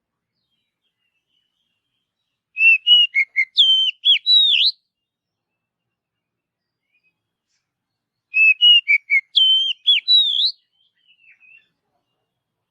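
Oriental magpie-robin (kacer) singing: the same short phrase of clear, sliding whistled notes, about two seconds long, given twice about six seconds apart.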